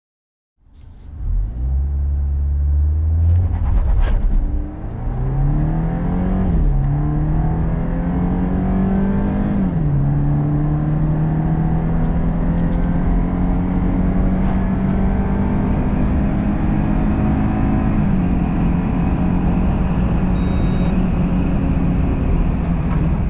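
A BMW 318i's 2.0-litre turbocharged four-cylinder petrol engine at full throttle from a standstill through its 8-speed automatic gearbox. It holds steady revs briefly, then climbs in pitch through each gear, dropping sharply at three upshifts. A short high electronic beep sounds near the end.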